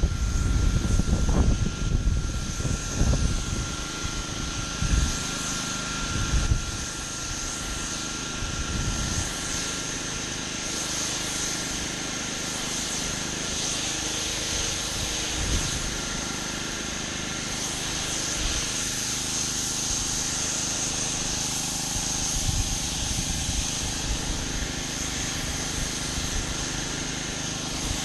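Pressure washer running steadily: an engine drone with a hiss and a thin, steady high whine, with heavier low rumbling in the first few seconds.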